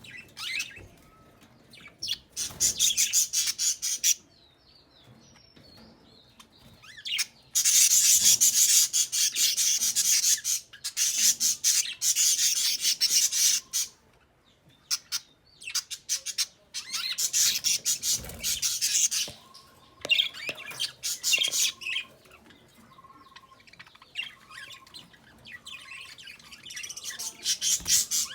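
Bird chirping in loud bouts of rapid, high-pitched calls, each bout lasting a few seconds with short pauses between. In the second half a fainter, lower note repeats about once a second.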